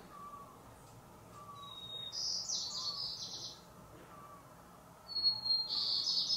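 Birdsong: two high phrases, each opening with a thin whistle and breaking into rapid notes, with fainter short calls repeating lower down.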